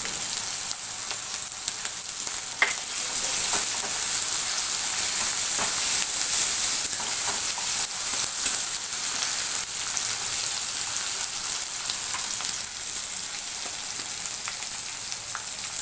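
Garlic paste and turmeric sizzling in hot oil in a steel kadai: a steady frying hiss, with a few short clicks and scrapes as a flat metal spatula stirs the paste against the pan.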